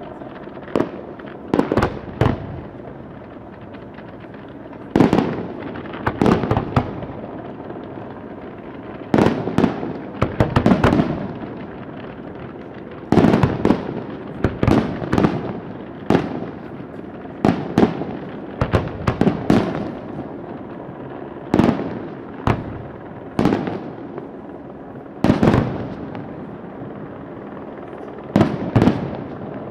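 Fireworks going off: sharp bangs, singly or in quick clusters of two or three, every second or two, each with a short echoing tail.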